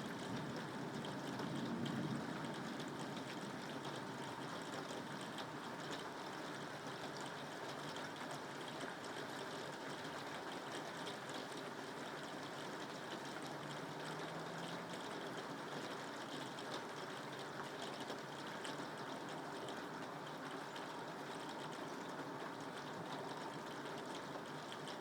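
Soft rain falling steadily: an even hiss with scattered drop ticks. A low rumble of distant thunder dies away in the first two seconds.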